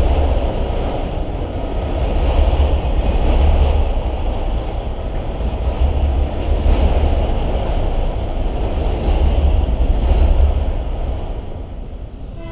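Freight train of autorack cars rolling past close by: a steady rumble and rattle of steel wheels on the rails, with a deep rumble surging every couple of seconds. It drops away in the last second.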